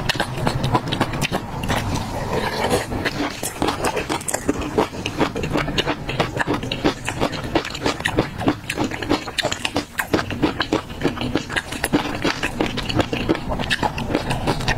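Close-miked chewing of a mouthful of chopped peanuts in chili oil: rapid, irregular crisp crunches mixed with wet mouth sounds.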